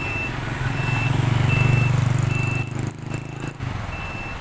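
A heavy vehicle's reversing alarm beeps steadily, about one short beep every 0.8 seconds, over a truck engine running. The engine grows louder for a couple of seconds, then drops back a little past halfway.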